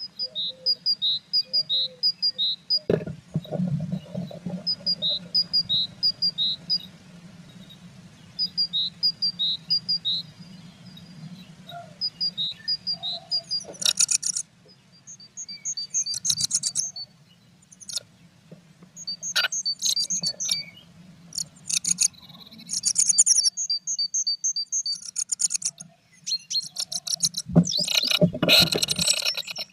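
Small songbirds at a blue tit nest box: a thin two-note phrase repeated in short runs several times, then louder, buzzy chattering calls in the second half, with a few knocks and rustles near the end over a low steady hum.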